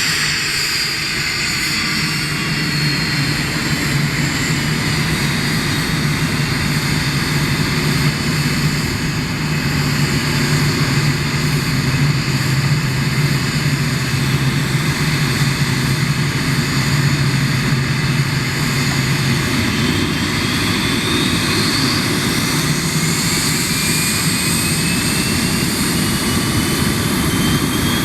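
Cessna Citation XL business jet's twin turbofan engines running steadily with a loud, even roar and low hum; in the last several seconds a whine rises in pitch.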